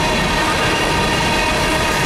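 Empty steel coal hopper cars of a freight train rolling past: a steady noise of wheels on rail, with faint high ringing tones over it.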